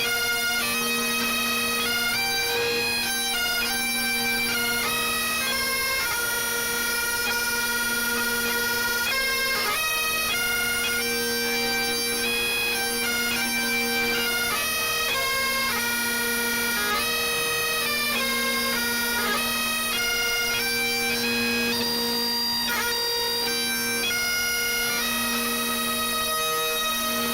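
Bagpipes playing a tune over steady drones. The chanter moves quickly from note to note above the unbroken drone tones, and the music stops abruptly at the end.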